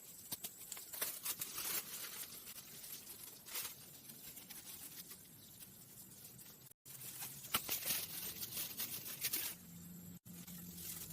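Irregular crackling and rustling with scattered sharp clicks, like dry material being handled or torn.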